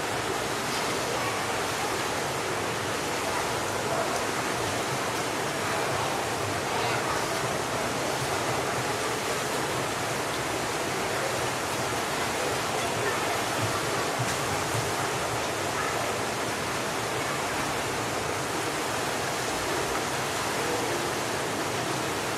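Public swimming pool ambience: a steady, dense wash of many children's and adults' voices blended with splashing water, no single voice or event standing out.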